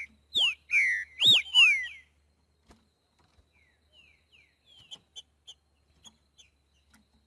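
Green-winged saltator (trinca-ferro) singing a loud phrase of four or five slurred, whistled notes in the 'boiadeiro' song type, followed after a pause by much softer short descending notes and chirps.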